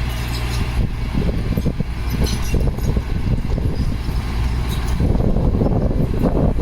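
Heavy earthmoving machinery running: a diesel engine's steady low drone under a rough, clattering layer that grows louder about five seconds in.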